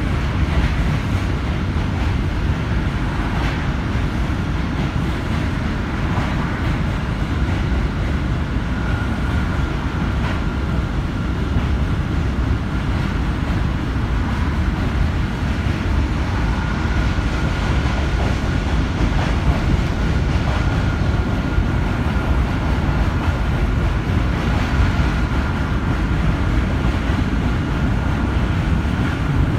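New York City subway J train in motion, heard from inside the car: a steady, loud rumble of wheels on rails, with a thin high whine that comes in about a third of the way through and holds.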